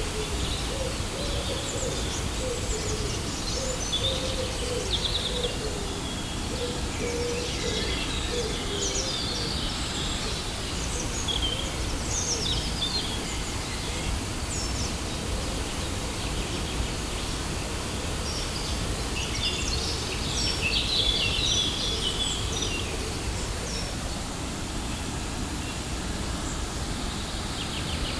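Waterfall rushing steadily, with birds chirping over it, busiest near the middle and around twenty seconds in. A lower warbling call is heard through the first ten seconds.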